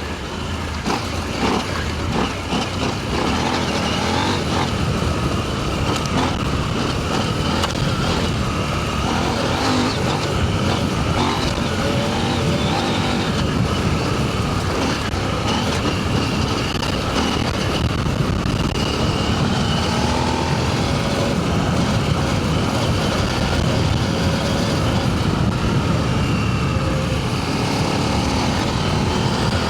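Adventure motorcycle engine running steadily under load on a loose sand and gravel trail, with rushing wind noise. Several sharp knocks in the first few seconds as the bike bounces over bumps.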